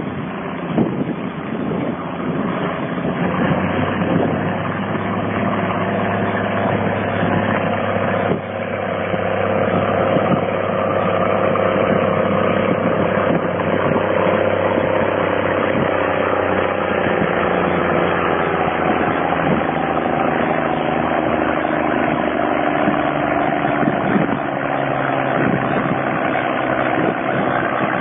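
Minneapolis-Moline G-VI six-cylinder diesel tractor engine running hard under load on a pulling sled. In the second half its note slowly falls in pitch as the engine lugs down under the building load.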